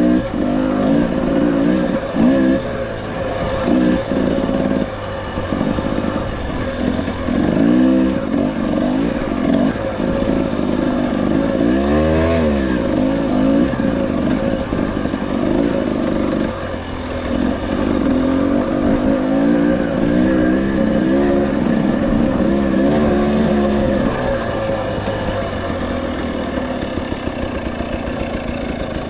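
300 cc two-stroke dirt bike engine revving up and down with the throttle while riding a tight trail, with one sharp rev about twelve seconds in. It runs steadier and a little quieter near the end.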